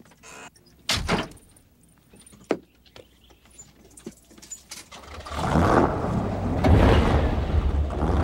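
A few scattered clicks and knocks, the loudest about a second in, then from about five seconds in a car engine revving up loud with a deep rumble that holds.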